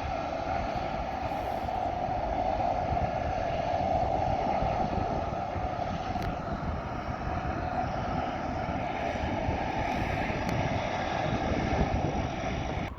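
Water bomber's aircraft engines running steadily with a strong, even whine, and wind buffeting the microphone underneath.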